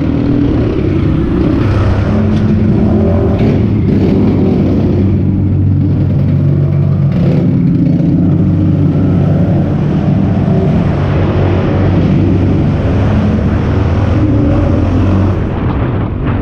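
Pit bike engine running under throttle while being ridden, its note rising and falling as the throttle opens and closes.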